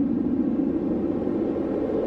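Strong winter storm wind blowing steadily: a low, even rushing sound whose pitch creeps slightly upward.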